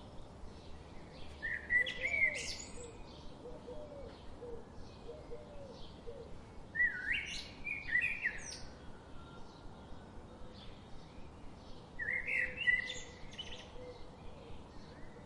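Songbirds twittering: a loud, complex song phrase comes three times, about every five seconds, over a constant faint, quick chirping of other birds and some soft low warbling notes.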